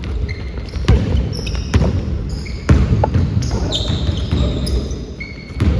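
A basketball bouncing on a court during a game: several separate bounces, the loudest nearly three seconds in, with short high sneaker squeaks between them.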